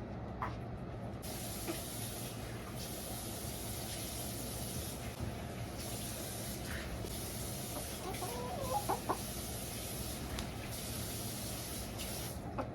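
A hen clucking softly a few times, the clearest calls about eight to nine seconds in, over a steady high hiss that starts about a second in and stops near the end.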